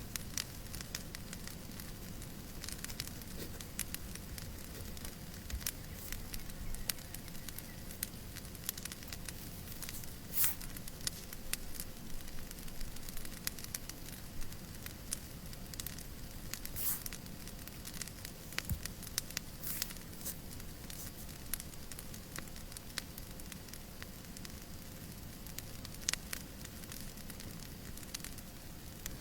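Fireplace crackling, with irregular sharp pops and snaps over a steady soft hiss of white noise; one pop about ten seconds in stands out as the loudest.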